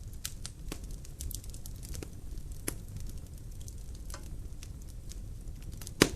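Logs burning in a fireplace, crackling with scattered sharp snaps over a low, steady rumble of the fire, with one loud pop near the end.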